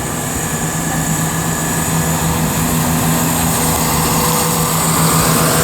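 Diesel engines of a Class 175 diesel multiple unit running at the platform, a steady hum over a constant mechanical din that grows slightly louder, with a higher engine note joining about two seconds in as the unit gets ready to pull away.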